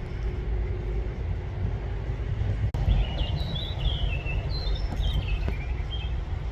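Ducklings peeping in a quick series of short, high, slightly falling chirps from about three seconds in, over a steady low rumble.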